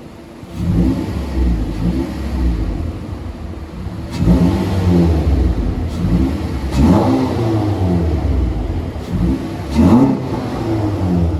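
Four-cylinder car engine with a newly fitted aftermarket intake, revving up and dropping back several times so the intake can be heard. It starts about half a second in and is loudest around four, seven and ten seconds in.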